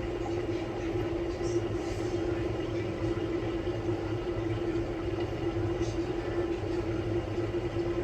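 Samsung Bespoke Grande washing machine running on its quick-wash course: a steady hum with a constant mid-pitched motor whine.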